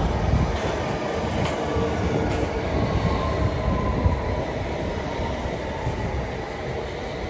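London Underground S8 Stock train running into the platform and slowing, with the rumble of wheels on rail and a faint falling whine as it brakes. The sound eases off over the last few seconds.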